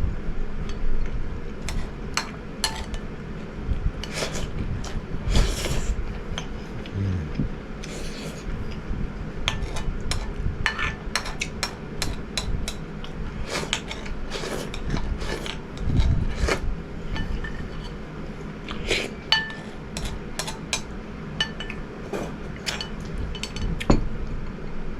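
Eating utensils clinking and scraping against a dish in short, irregular knocks as a plate of tenshinhan is eaten.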